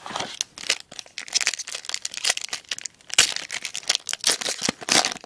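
Foil wrapper of a baseball card pack being torn open and crinkled, with irregular crackling and rustling.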